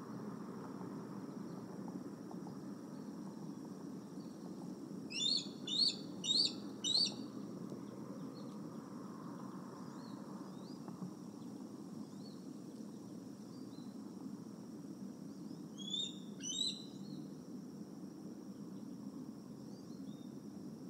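Bird calls: a run of four high, loud chirping notes, then two more about ten seconds later, with faint small chirps in between, over a steady low outdoor rumble.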